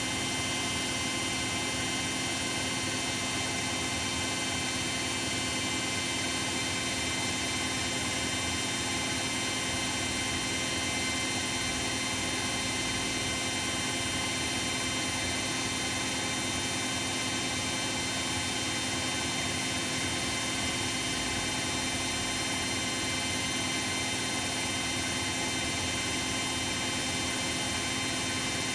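Bosch WAE24162GB washing machine spinning its drum at a steady speed: an even motor whine over a rushing hum, with no starts or stops.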